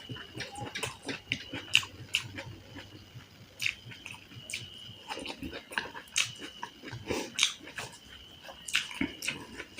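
Close-miked eating: wet chewing and lip-smacking, with irregular sharp clicks and squelches from the mouth.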